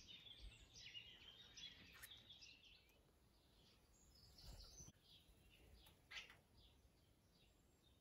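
Faint chirps and twitters of small birds, with a brief louder call about six seconds in.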